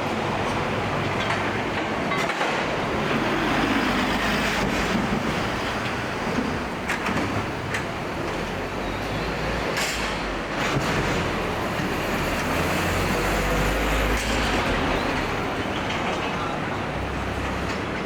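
Steady vehicle noise of a city street: a continuous rumble and hiss, with a few sharp clicks in the middle.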